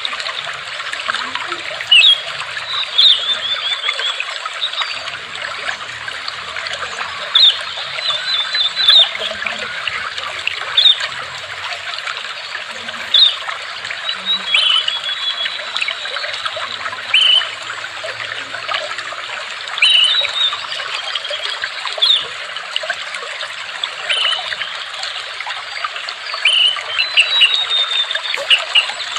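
Water trickling steadily, with birds giving short high chirps and quick trills every second or two over it.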